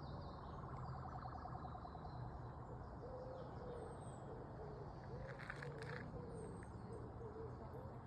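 Quiet woodland ambience: a distant siren wailing up and down from about three seconds in, a few short high bird chirps, and a low steady hum of distant road traffic.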